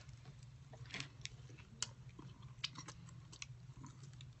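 Someone chewing a bite of turon, a crispy fried banana spring roll, with a handful of faint scattered crunches and clicks over a low steady hum.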